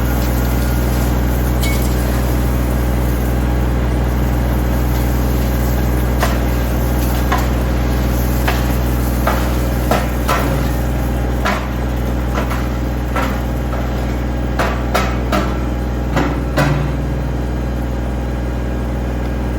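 An engine runs steadily with a low hum. Over it come a dozen or so sharp, irregular knocks and clanks, bunched mostly in the second half.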